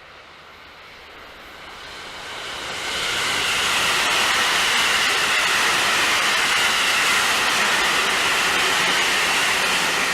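A train passing close by on the tracks: the noise of its wheels on the rails builds over the first three seconds, holds steady and loud, and begins to fade at the very end.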